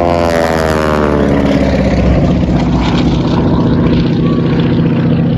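North American SNJ propeller trainer with a radial engine flying past, its engine drone dropping in pitch over the first couple of seconds as it goes by, then holding steady.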